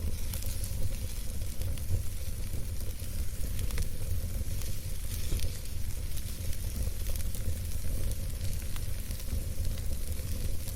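Campfire burning: burning wood crackling with scattered small pops over a steady hiss and a low rumble.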